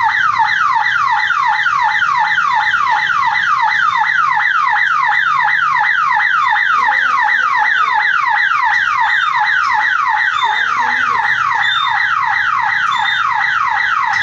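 Railway level-crossing warning buzzer sounding: a loud electronic siren of quick falling sweeps, about two and a half a second, signalling that a train is approaching on the down line.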